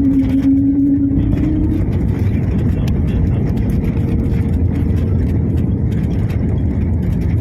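Airliner noise during a night landing: a steady, loud low rumble of engines and airflow, with a whine that rises slightly in pitch over the first two seconds and then fades, leaving a fainter steady hum.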